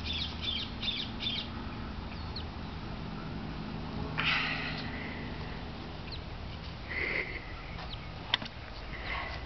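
Birds calling: a quick run of high chirps at the start, then a harsh call about four seconds in and another about seven seconds in, over a steady low hum. A single sharp click comes near the end.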